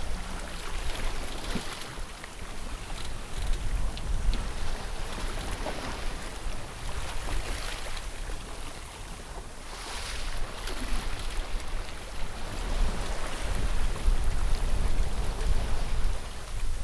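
Sailboat under sail, with water rushing and splashing along the hull in surges. Wind buffets the microphone with a low rumble that comes and goes, strongest in the second half.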